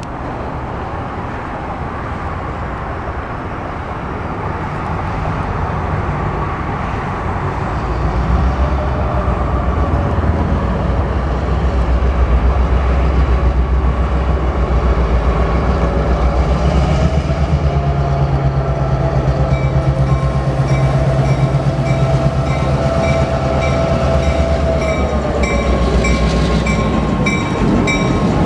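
Diesel locomotive Northern Plains 1761 running with its passenger train. The engine and the running of the cars build up about eight seconds in and then hold steady, and a regular high-pitched ticking joins in the last third.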